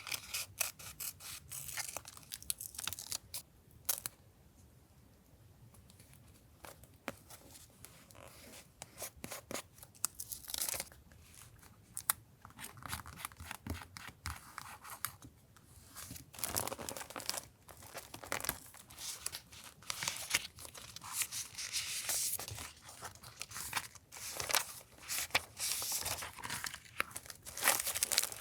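Paper being torn and rustled by hand for a journal collage, with many small taps and crinkles; after a sharp tap about four seconds in it goes quiet for a few seconds, then the tearing and rustling resume.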